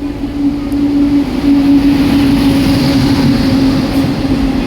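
Howrah–Kalka Super Express train running: a loud, dense rumble with a steady hum. It swells about a second and a half in and eases slightly near the end.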